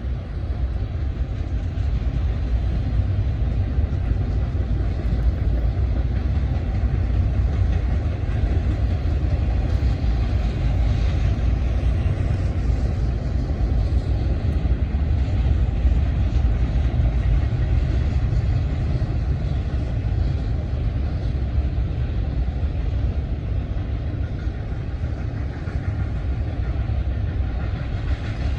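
A train passing at speed: a steady, loud rumble of wheels on rail and railcars that holds for the whole stretch.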